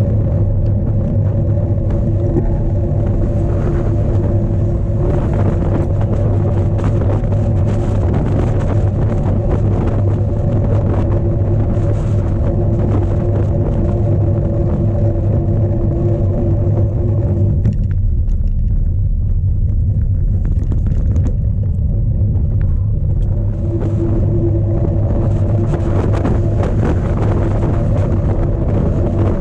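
Strong wind buffeting the microphone of a bike-mounted camera, a loud steady rumble, with the cyclocross bike rattling and clattering over rough ground; the clatter eases for a few seconds in the second half.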